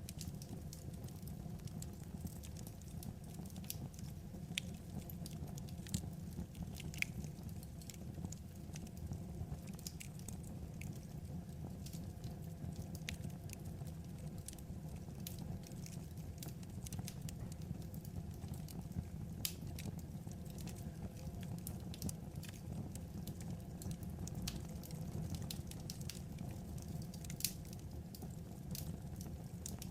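Wood fire burning with a steady low rumble and irregular sharp crackles and pops of the burning logs.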